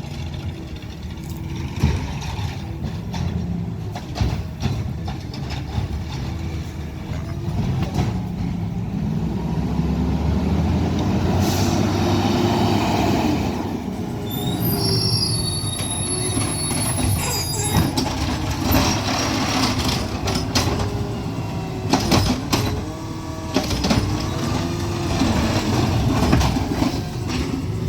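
Garbage truck's diesel engine running loudly, growing louder about eight seconds in. Over it come high-pitched squeals and sharp metallic clanks now and then.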